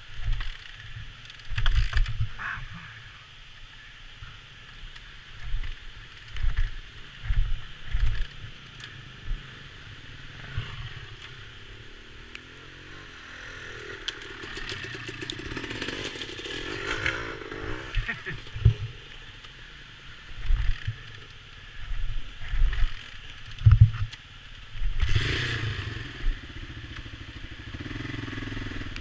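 Honda XL500S single-cylinder four-stroke being kick-started over and over: a series of low thumps as the kick lever swings and the engine turns over without catching. Near the end the engine fires and keeps running.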